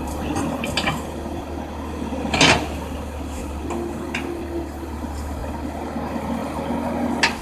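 Komatsu excavator's diesel engine running steadily while crushed rock is loaded into a dump truck, with a loud crash of rock striking the truck bed about two and a half seconds in and another sharp hit near the end.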